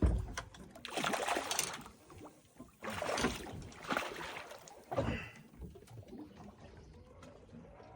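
Water sloshing and splashing around a small boat, in irregular bursts that are strongest in the first few seconds.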